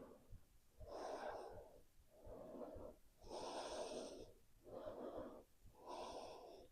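Faint, audible breathing of a person holding a yoga pose: five short breaths in and out, about one a second.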